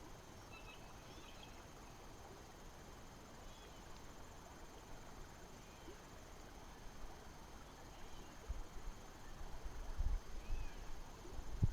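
Faint outdoor ambience with a few scattered, faint high chirps. In the last few seconds there are low bumps and rumbles on the microphone.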